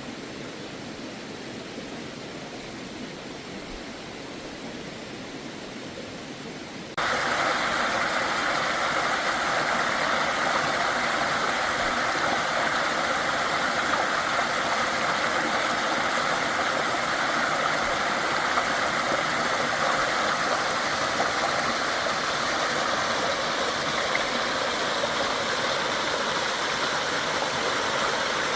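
Steady rush of running water. About seven seconds in it jumps abruptly louder and brighter.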